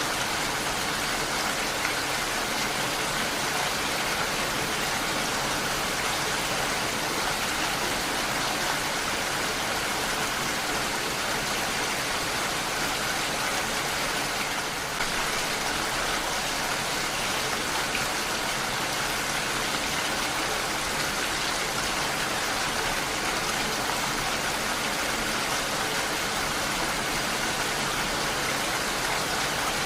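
Steady heavy rainfall, an even dense hiss of rain falling on surfaces, with a brief lull about halfway through.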